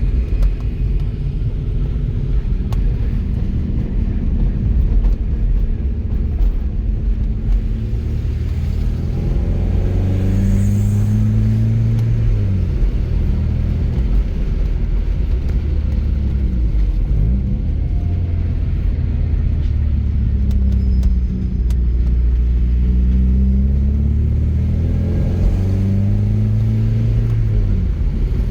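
Porsche 944's 2.5-litre fuel-injected four-cylinder engine pulling the car along, its note rising under acceleration and dropping at each gear change, three times.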